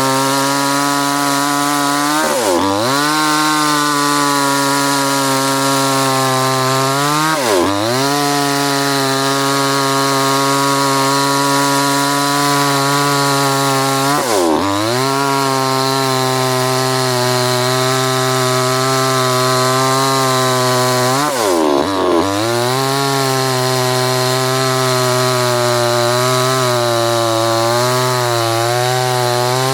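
Two-stroke petrol chainsaw running at high revs, its pitch dipping sharply and climbing straight back every few seconds, five times in all.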